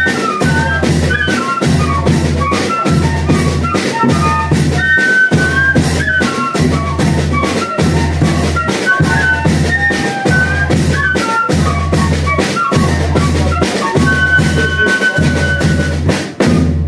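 Banda de pífano music: fifes playing a high melody over a steady bass-drum beat with lighter percussion between. The music stops suddenly near the end.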